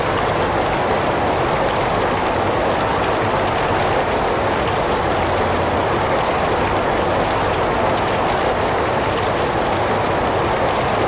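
Heavy rain falling in a steady, even wash, with no breaks or distinct drops standing out.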